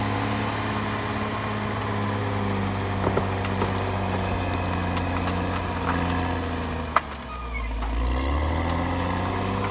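CAT D6R XL bulldozer's diesel engine running steadily under load, with a few short clanks. About seven seconds in there is a sharp knock, and the engine note drops low for about a second before picking back up.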